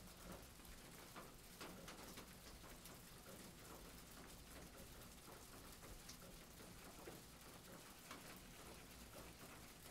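Faint rain pattering, with many small sharp drip ticks scattered through it over a low steady hum.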